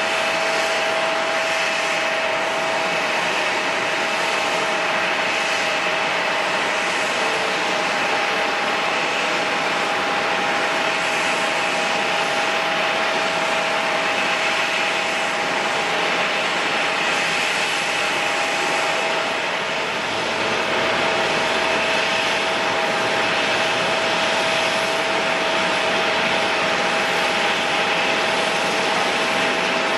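Jet airliner engines running steadily: an even rushing noise with a steady whine. A deeper rumble joins about two-thirds of the way through.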